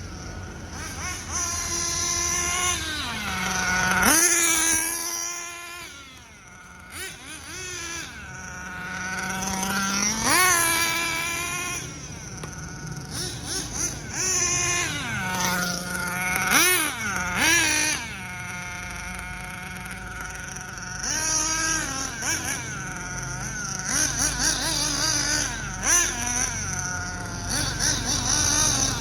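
Nitro engine of a Hobao Hyper VS RC buggy being run in, revving up and down over and over, its whining pitch rising and falling in several long sweeps.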